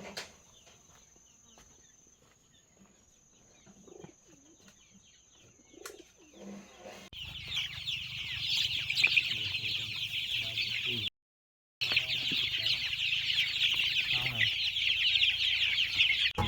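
Chickens calling: after a quiet start with a few faint knocks, a flock sets up many overlapping high calls from about seven seconds in. The calls break off for a moment of silence around eleven seconds, then resume.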